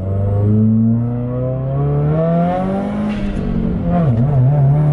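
E85-tuned Subaru WRX's turbocharged flat-four pulling hard under acceleration, heard from inside the cabin; the engine note climbs steadily in pitch, dips briefly about four seconds in and picks up again.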